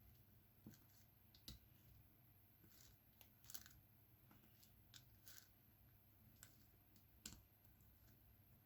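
Faint, irregular small clicks and taps of diamond-painting work: a drill pen picking up resin drills and pressing them onto the sticky canvas, about eight or ten clicks spread out.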